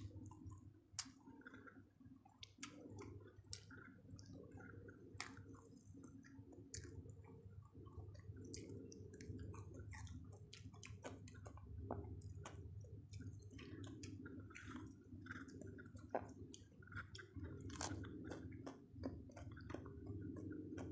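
Close-miked chewing of a person eating a rice meal with her fingers: wet mouth sounds with many sharp little lip-smack clicks scattered throughout.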